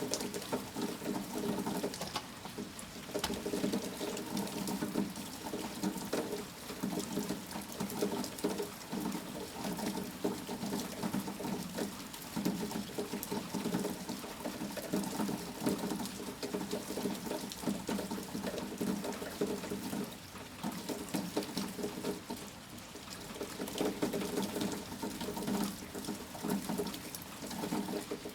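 Rain pattering and splashing in a dense, steady stream of drips that swells and eases slightly.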